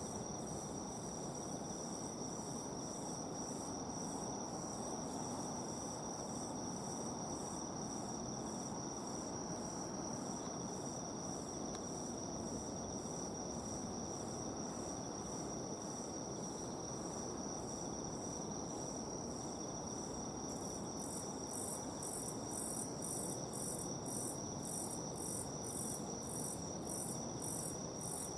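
Night insects singing: a steady high-pitched drone, with a second insect's rhythmic chirping at about two pulses a second that grows louder about twenty seconds in.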